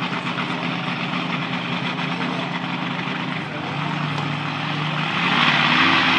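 Monster truck engine running with a steady rumble, dropping in pitch about three and a half seconds in, then revving up louder about five seconds in.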